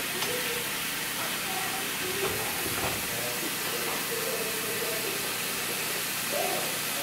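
Hamburger patties sizzling in hot oil in a frying pan, with a few light knocks as a spatula moves them around the pan.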